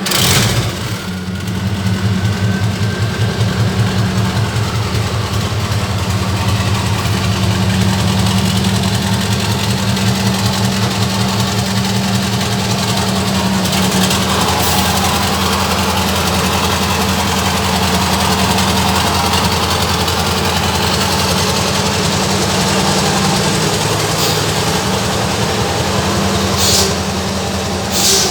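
Scania LK truck's V8 diesel engine catching at the very start and then idling steadily with an even low pulse. A short hiss comes near the end.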